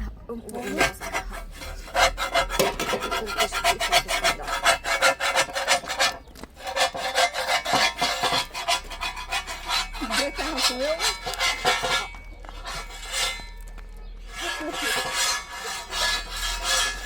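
Rapid, repeated scraping or rubbing strokes, pausing briefly about six seconds in and again for a couple of seconds later on.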